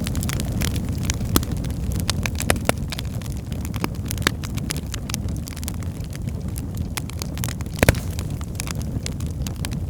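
Birch logs burning in a fireplace: a steady low rumble of flames with irregular crackles and small pops, and one louder pop near the end.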